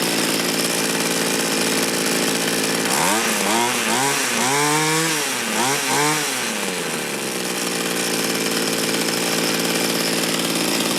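Small two-stroke engine of a mini tiller running steadily, not yet warmed up, on a newly replaced carburetor metering diaphragm. Through the middle its revs rise and fall several times in quick throttle blips.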